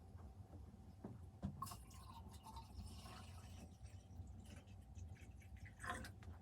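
Faint scattered knocks and soft rustling over a low steady hum, with a slightly louder rustle near the end.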